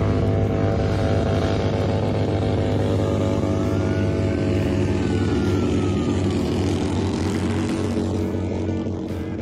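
SUV engine held at steady high revs in a burnout, its tyres spinning in place. The engine note eases slightly near the end.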